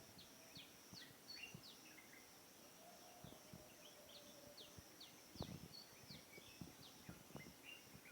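Faint dawn bird chorus: many short, high, downward chirps from small birds over a steady high-pitched drone, with a few soft low knocks in the second half.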